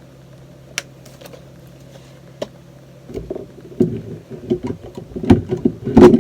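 Handling noise: a few single clicks, then from about three seconds in a quick run of knocks and rattles, loudest near the end, over a steady low hum.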